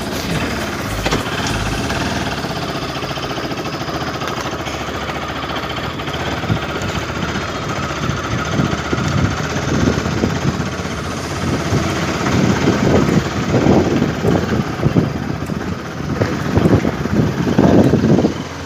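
Bajaj Pulsar RS200's single-cylinder engine running as the motorcycle is ridden, heard from the rider's seat. From about the middle on, irregular gusts of wind buffet the microphone, louder near the end.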